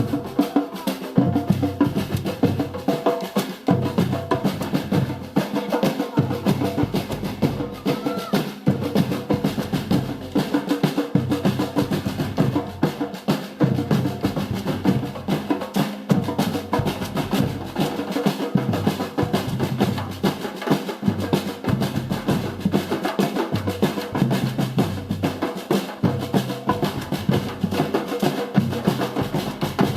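Samba drum group playing together, bass drums and snare drums in a dense, steady rhythm during the carnival bloco's warm-up.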